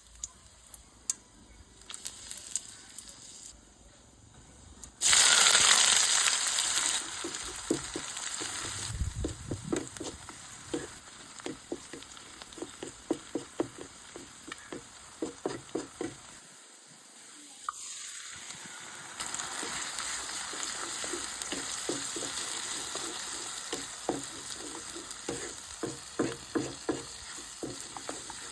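Something going into hot oil in a cooking pan, with a sudden loud burst of sizzling about five seconds in. Steady frying follows, with the spatula scraping and tapping the pan in quick repeated strokes as the food is stirred. The sizzle briefly drops away past the middle and then resumes with more stirring.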